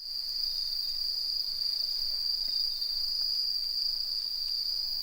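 Insects trilling steadily in one high, unbroken tone.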